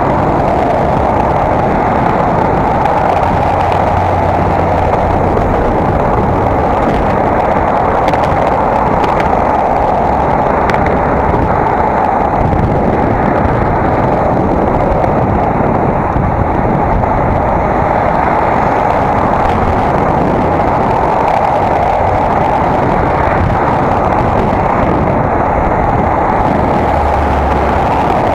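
Steady, loud rushing noise of wind and riding on an action camera's microphone while cycling.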